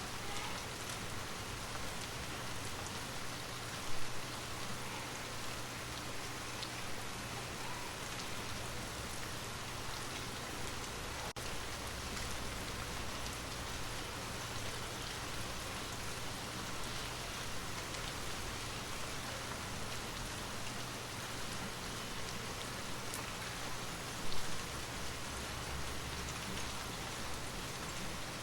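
Steady rain falling and pattering on surfaces, an even hiss, with two brief louder moments, about four seconds in and again near the end.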